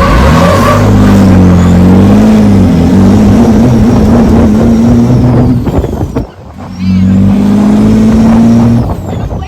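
Drag-racing semi truck's diesel engine running hard under heavy throttle, its note wavering and then holding steady. About six seconds in the note drops away briefly, then comes back strong.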